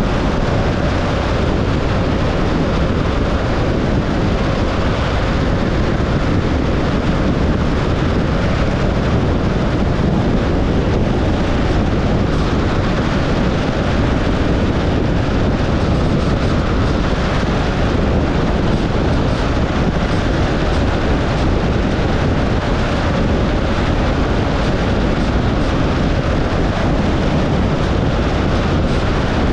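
A car driving on the road: a steady, even rush of tyre and wind noise that does not change.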